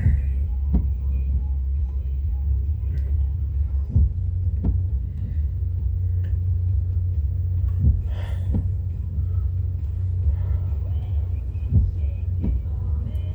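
Passing CN freight train of autorack cars, heard from inside a car: a steady low rumble, with the wheels clicking over a rail joint in pairs about every four seconds as each car goes by.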